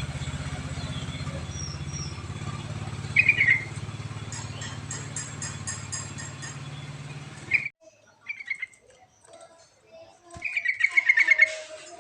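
Yellow-vented bulbul (trucuk) giving short bubbly chirping phrases, with a longer quick run of notes near the end. The first part carries a steady low hum that cuts off abruptly about two-thirds of the way in, where one recording gives way to a cleaner one.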